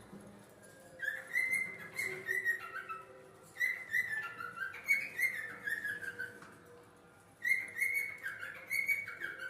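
Budgerigars chirping: three bouts of quick whistled notes, each stepping downward in pitch and lasting two to three seconds.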